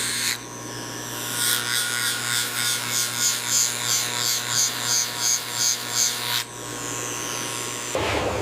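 Small electric motor or machine humming steadily, with a regular high-pitched pulsing at about three pulses a second that starts about a second and a half in and stops about six and a half seconds in.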